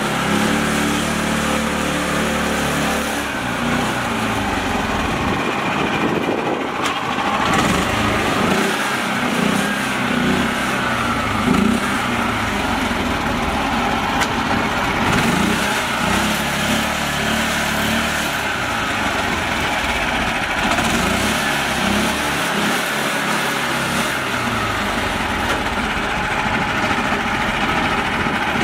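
Small mini tractor engine running steadily, its pitch wavering up and down.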